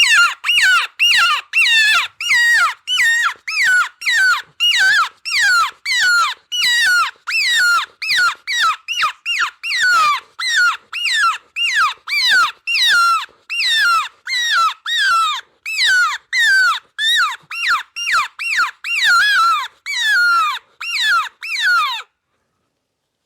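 Predator call blown to imitate a prey animal in distress: a long series of loud, high squeals, about two a second, each one falling in pitch, stopping abruptly near the end. This is the higher-toned, louder of the two distress calls.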